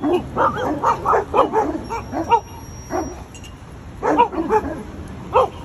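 Dog yapping in quick runs of short yips, several a second, pausing about halfway through before starting again.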